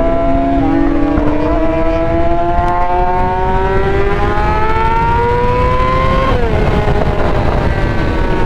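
Yamaha R6's inline-four engine pulling steadily higher in revs under acceleration, with a sudden drop in pitch at an upshift about six seconds in before it climbs again. Wind rush runs underneath.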